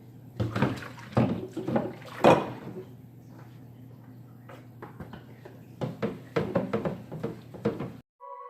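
Fridge shelves being handled and washed at a sink: irregular knocks, clinks and rubbing with some water, in two bursts of a couple of seconds each. It cuts off suddenly near the end and a steady electronic music tone begins.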